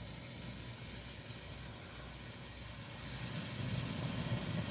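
Gas torch flame hissing steadily, getting a little louder about three seconds in as it is turned up to a flame of about three inches.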